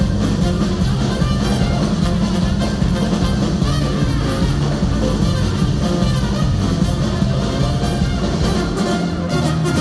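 Live ska-punk band playing loud, with brass horns over drums and bass.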